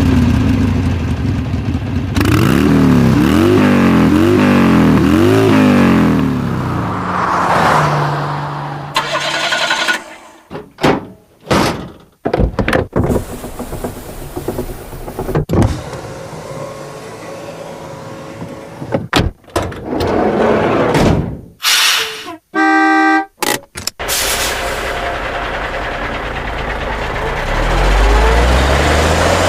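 A montage of car sound effects. An engine revs up and down repeatedly in the first few seconds. Then comes a run of sharp clunks and thunks, like doors and hoods shutting, and a brief pitched tone a little after the middle. A car engine runs again through the last few seconds and rises in pitch near the end.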